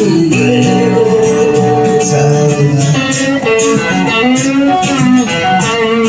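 Rock band playing a guitar-led passage, with sustained and bending guitar notes over drums with steady cymbal hits.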